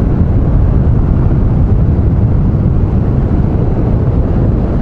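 Triumph Street Triple 660 motorcycle's three-cylinder engine running steadily while riding at an even speed, a constant low drone with no change in revs.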